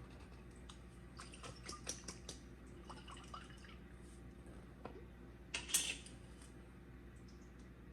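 Faint kitchen handling sounds over a steady low hum: a few light clicks and small liquid sounds of sauce being worked in the pan, then one louder brief clatter a little under six seconds in.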